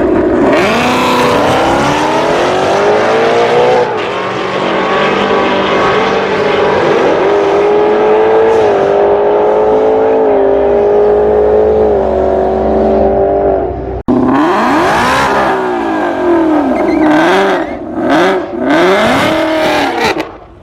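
Drag-race car engine at full throttle, climbing in pitch and dropping back at each gear change, then holding a long, slowly rising pull. After a sudden cut about fourteen seconds in, an engine is revved in a series of short rises and falls.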